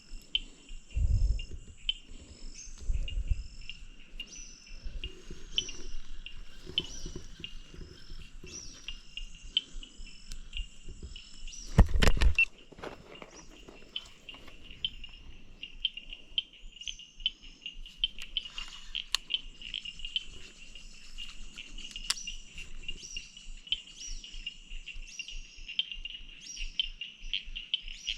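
Outdoor nature sounds: birds chirping over a steady high insect trill. A few low thumps break in, the loudest about twelve seconds in.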